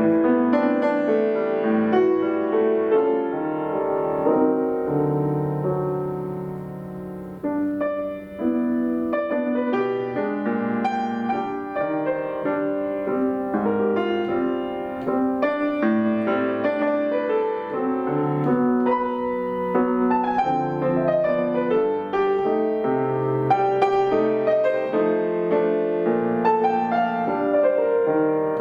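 Solo piano playing a piece of chords under a melody, easing to a softer held chord about a quarter of the way through before picking up again.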